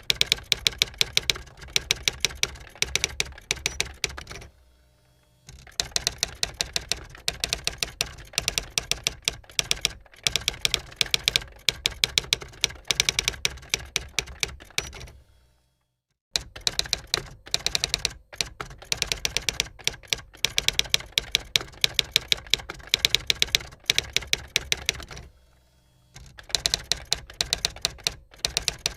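Typewriter being typed on: rapid runs of sharp key strikes, with short pauses about five seconds in, near the middle and near the end.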